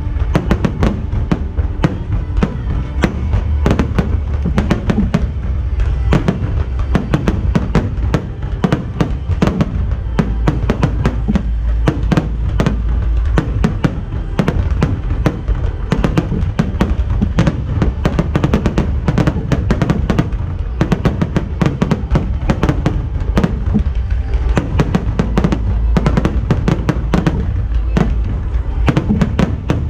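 Fireworks display in full barrage: rapid, densely packed bangs and crackling over a low rumble, with music playing along.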